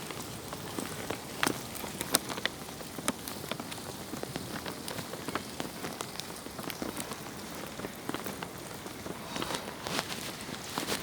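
Steady rain falling, with many irregular sharp drop hits over an even hiss.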